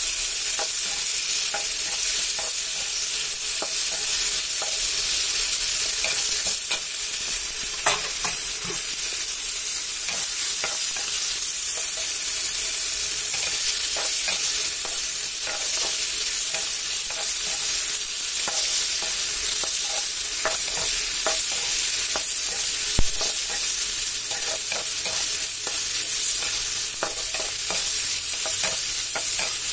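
Tomato chunks sizzling in hot oil in a kadai, steadily, while a perforated metal spatula stirs them, scraping and clinking against the pan. A sharper clink about 23 seconds in.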